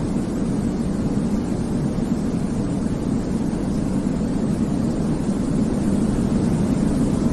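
Steady, unchanging sleep noise with a deep, muffled character, most of it low and little hiss on top, closer to brown noise than to bright white noise.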